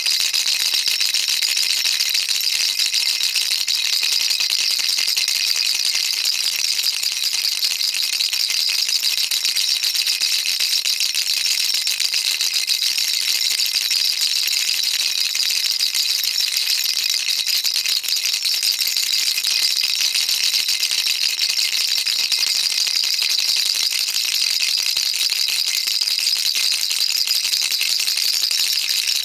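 Baby rattle shaken continuously, a dense, even rattling of small beads with no pauses, bright and high-pitched.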